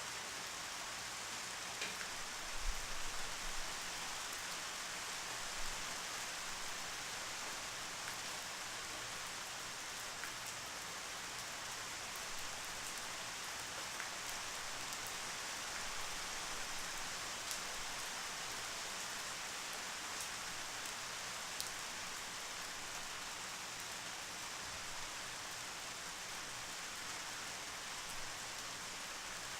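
Steady rainfall: an even hiss with scattered individual drops ticking. A few low thumps about three seconds in.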